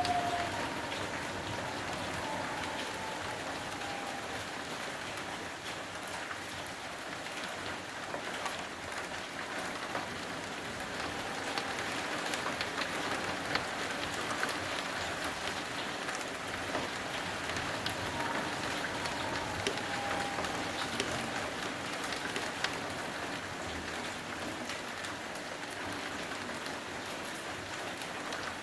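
Steady heavy rain falling, an even hiss with many sharp drop ticks close by.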